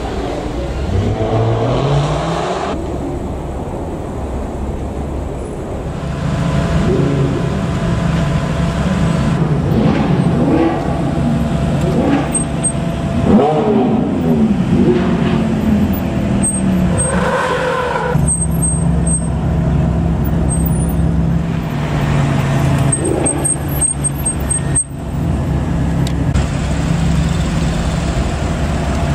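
Supercar engines revving and accelerating away through a slow corner, their pitch rising and falling as cars pass one after another. In the last third a steadier, lower engine drone takes over.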